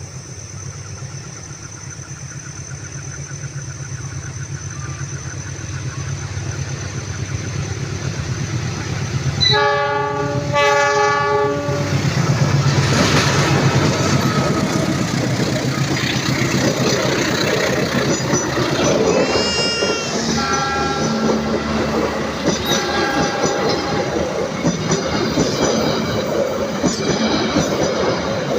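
Pangrango passenger train approaching and passing, its rumble growing steadily louder. Two horn blasts sound about ten seconds in, followed by the loud rumble and clatter of the carriages going by, with a few brief wheel squeals.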